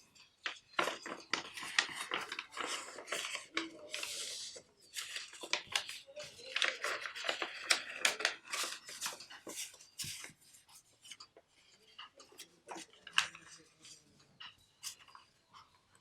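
A sheet of origami paper being folded and creased by hand: crinkling and rustling with many sharp creasing clicks, busy for about the first ten seconds and then sparser and quieter.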